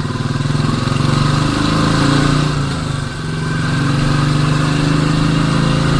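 Royal Enfield Classic 350's single-cylinder engine running under way, heard from the rider's camera. The engine note eases off briefly about three seconds in, then pulls steadily again.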